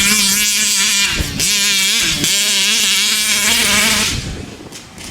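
Taylor 46 GT two-stroke gas engine of a large-scale RC truck at full throttle, its high-pitched note wavering, dipping briefly twice as the throttle is blipped, then falling away to a quieter level near the end.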